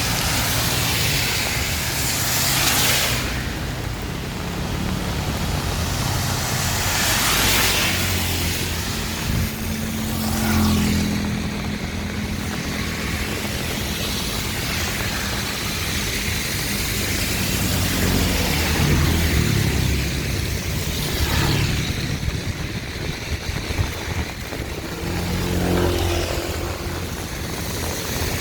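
Heavy rain and road traffic: vehicles passing on a wet road with the hiss of tyres on water, two louder swells a few seconds in and again about seven seconds in, over a steady low rumble of engines.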